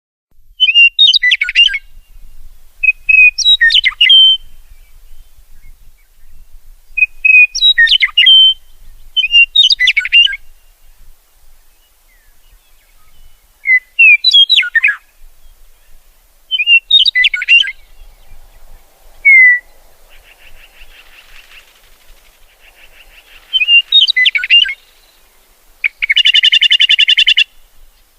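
A songbird singing short phrases of quick whistled notes that slide up and down, one phrase every few seconds, starting about a second in. Near the end comes a longer buzzy, rattling call.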